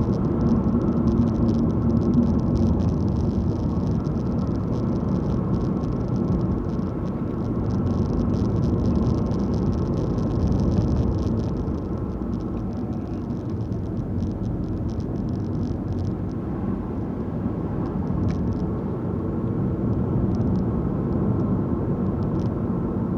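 Car driving along a road: steady engine and tyre road noise.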